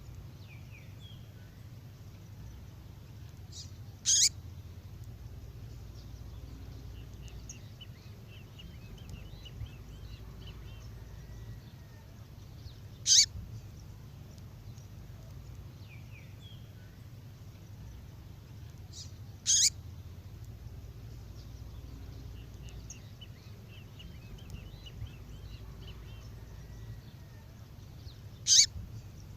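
A female songbird's call: a short, sharp, high call four times, about every nine seconds, over soft twittering chirps, the same sequence repeating like a looped recording.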